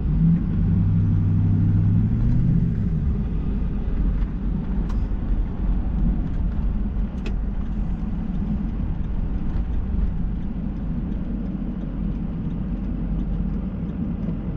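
Ford 6.0 Powerstroke V8 turbo-diesel pickup driving. A steady engine note for the first three seconds or so then settles into a low rumble of engine and road noise, with scattered small clicks.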